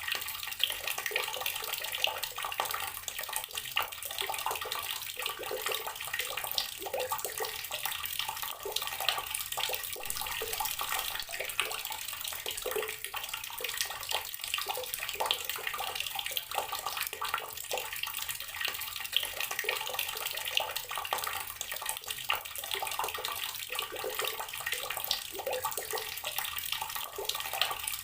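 Water running steadily from an outdoor garden tap and splashing down, an even hiss with small splatters throughout.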